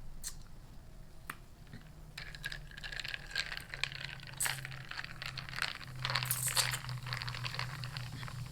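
Takeout food packaging crinkling and tearing as it is handled and opened: dense crackly rustling from about two seconds in until about seven seconds in.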